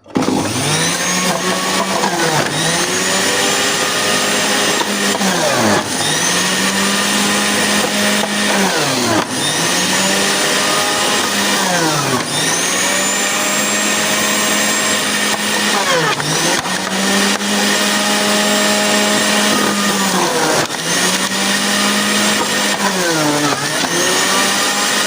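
Electric juicer motor running loud and steady while carrot and beetroot pieces are fed in. Its pitch sags and climbs back again and again, about every three seconds, as the motor is loaded by each piece.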